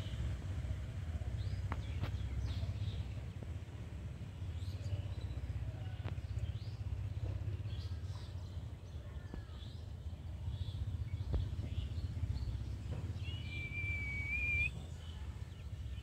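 Scattered faint bird chirps over a steady low rumble, with one drawn-out whistled note about thirteen seconds in, the loudest sound.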